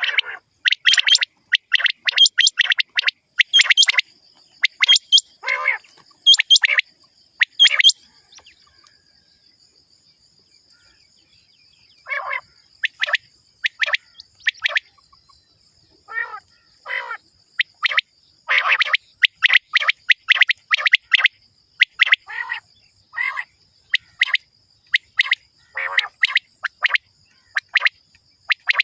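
Common quail calling: short sharp calls repeated in quick clusters, with a pause of a few seconds near the middle. A thin steady high tone runs behind the calls from about four seconds in.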